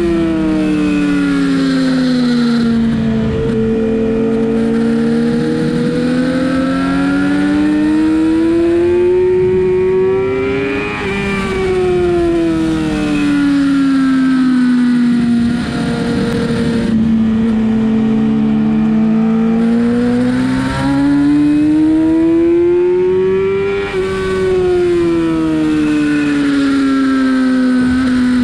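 Sportbike engine running hard on track. Its pitch drops near the start, climbs steadily for several seconds, drops sharply about eleven seconds in, then climbs again and falls near the end as engine speed changes through the lap.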